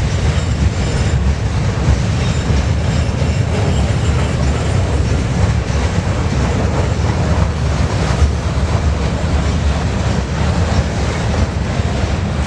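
Freight train rolling past close by: a loud, steady rumble of railcar wheels on the rails.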